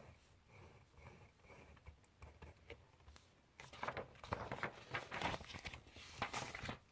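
Faint scratching of writing on paper, then about halfway through a louder stretch of paper rustling and scraping lasting about three seconds, which stops suddenly.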